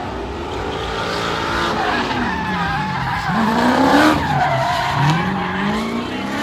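A car engine revving hard in a burnout, its pitch swinging up and down several times, with tires squealing. It is loudest about four seconds in.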